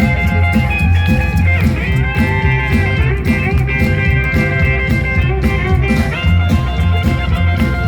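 Live rockabilly band playing, a guitar line with bent notes over a steady drum beat and bass.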